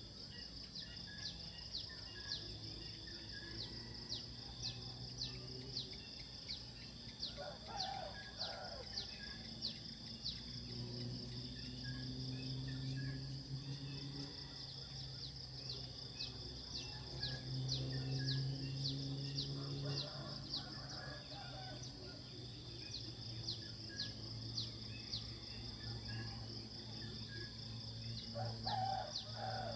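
Nature ambience: a steady high-pitched insect drone with many short, repeated bird chirps, over a low hum that swells and fades several times.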